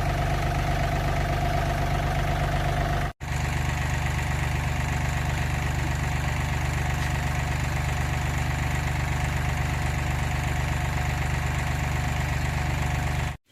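Car engine idling steadily, with a brief break about three seconds in where the sound cuts out and resumes.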